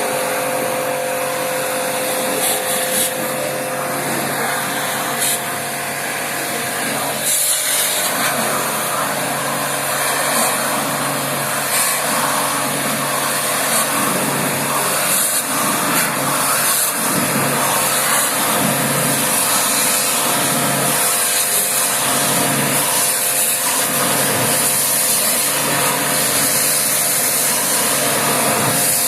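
Electric pressure-washer pump running steadily while its water jet hisses against the air conditioner, a loud even motor hum under a bright spray hiss that rises and falls slightly.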